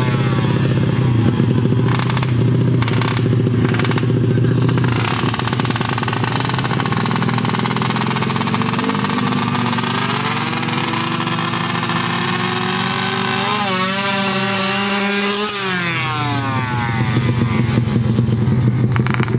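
Small-displacement underbone drag motorcycles running hard at high revs. One engine's pitch climbs steadily for several seconds, then drops away sharply about three-quarters of the way through.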